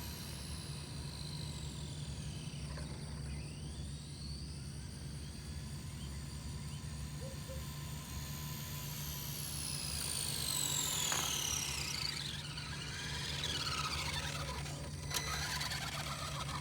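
RC drag car's motor whining high and sliding down in pitch, with a second set of falling whines around ten to fourteen seconds in, over a steady low hum. There is a sharp click about fifteen seconds in.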